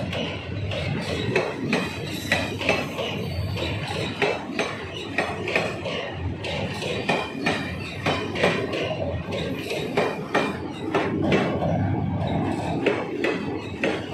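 Indian Railways passenger coaches passing at speed close by, their steel wheels clattering on the track in a fast, uneven run of clicks and knocks over a steady rumble.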